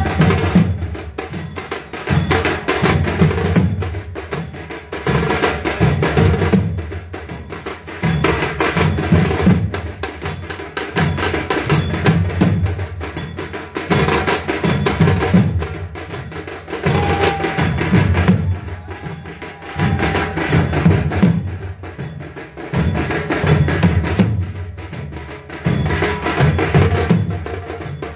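Traditional devotional drumming: drums beaten in a fast, steady rhythm with clashing metal percussion, rising and falling in loud swells every few seconds.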